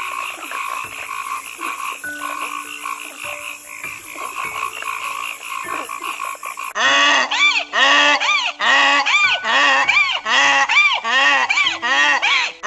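A frog croaking in a dense, rasping stream for about the first seven seconds, then a louder run of donkey braying calls, about two a second, each rising and falling in pitch.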